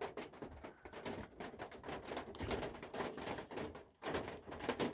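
Raindrops striking a van's roof and windows, heard from inside as a dense, irregular run of small clicks and taps.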